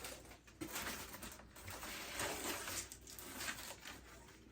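Sheets of cardboard being handled and laid down on a driveway: irregular rustling and scraping.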